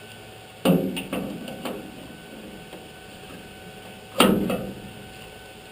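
Two loud knocks about three and a half seconds apart, each with a short ringing tail, the first followed by a couple of lighter knocks, over a steady electrical hum.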